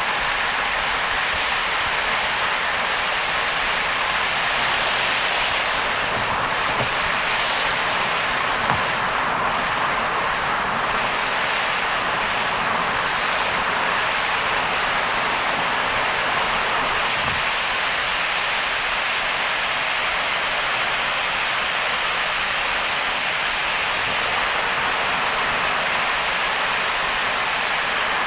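Heavy rain and road spray on a car driving at speed: a steady, even rush of noise, with one short tick about nine seconds in.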